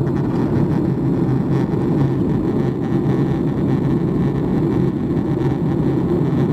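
Steady cabin noise inside a Boeing 737 MAX 8 in flight: the hum of its CFM LEAP-1B engines and airflow over the fuselage, heard from a window seat, deep and even throughout.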